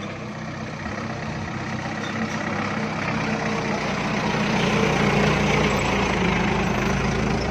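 Engine of a single-axle truck loaded with sand and gravel, running steadily and growing louder over the first five seconds or so, then holding.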